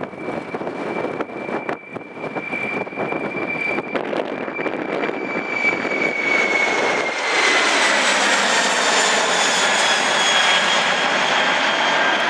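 Boeing 747-400F freighter's four jet engines at takeoff power, swelling markedly about seven seconds in, with a high whine that slowly falls in pitch as the aircraft passes. Wind buffets the microphone during the first seconds.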